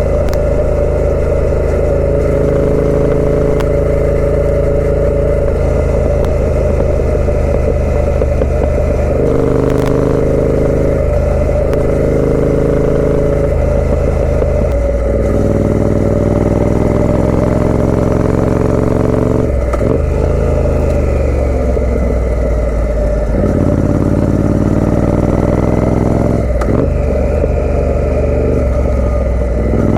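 Triumph Speed Twin 900's parallel-twin engine running through a British Customs aftermarket exhaust while riding, pitch climbing under acceleration and dropping back at several gear changes, with stretches of rolling off the throttle.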